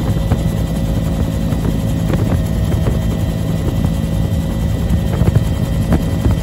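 Bell UH-1 Huey helicopter running steadily and loud: its Lycoming T53 turboshaft engine whine and the rapid beat of the main rotor blades.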